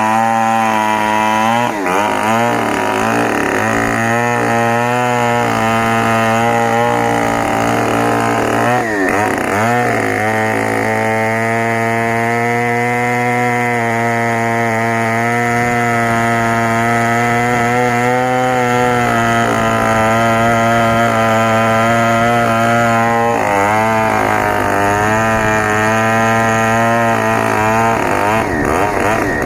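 Stihl 070 two-stroke chainsaw running under load, cutting through a log. Its engine note holds steady for long stretches and sags and recovers a few times as the chain bites.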